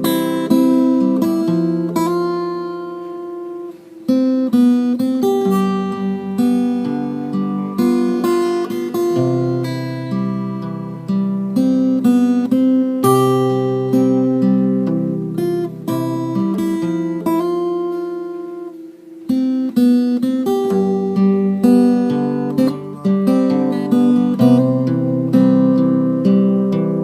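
Acoustic guitar music, plucked and strummed chords with a picked melody, pausing briefly twice.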